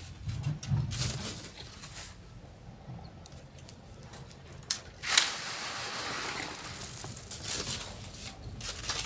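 Sand being shovelled and sifted by hand: scattered gritty scrapes and clicks, then a sudden rush of sand pouring about five seconds in that trails off over a couple of seconds.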